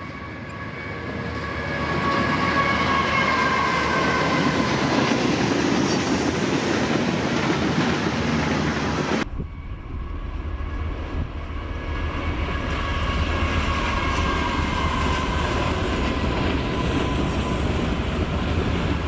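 Norfolk Southern train passing close by, its cars rumbling and clacking over the rails. The sound changes abruptly about nine seconds in to a deeper, heavier rumble.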